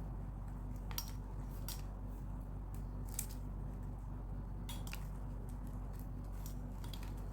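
Plastic craft wire being handled and pulled into a knot: scattered light clicks and crackles of the stiff plastic strips rubbing together, over a steady low hum.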